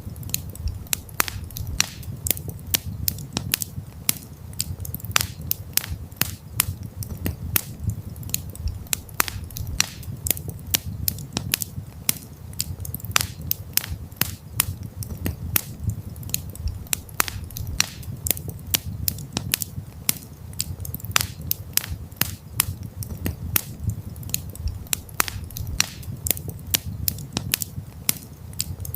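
Wood campfire crackling: irregular sharp pops and snaps several times a second over a steady low rush of the flames.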